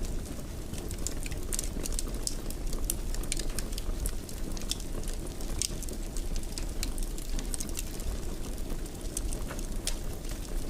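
Wood fire crackling in a fireplace: a steady low rumble under frequent irregular sharp pops and snaps.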